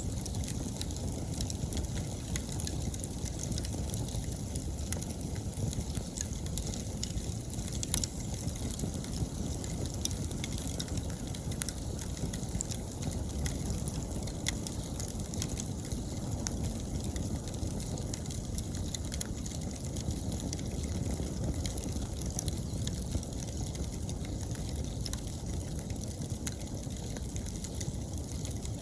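Wood bonfire burning with a low, steady flame rumble and scattered crackles and pops throughout. Autumn insects chirring faintly and steadily in the background.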